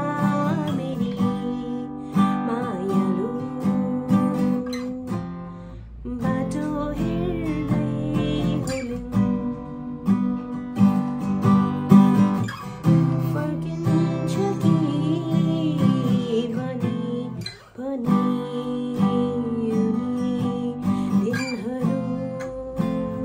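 Acoustic guitar being strummed through a chord sequence, with two brief breaks, about 6 and 17–18 seconds in.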